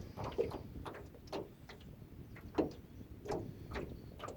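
Small waves lapping against a small boat's hull: irregular short slaps, about six in four seconds, over a faint low rumble of wind.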